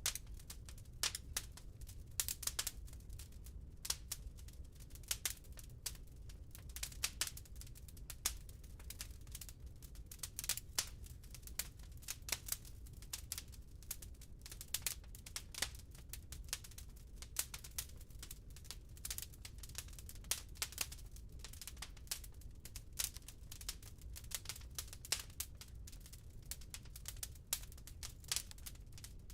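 Burning wood crackling in a fireplace: irregular sharp snaps and pops, several a second, over a low steady rumble.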